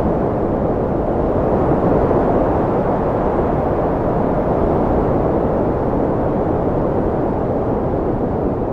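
Strong wind blowing in a steady low rush, its level easing slightly near the end.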